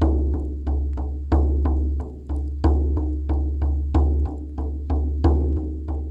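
Drumming music: a steady beat of about three strokes a second, every fourth stroke louder, over a low steady drone.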